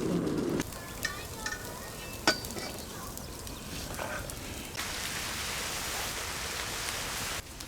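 Food frying with a steady sizzle, with scattered small clicks and one sharp click about two seconds in. The sizzle grows louder about five seconds in and cuts off abruptly near the end.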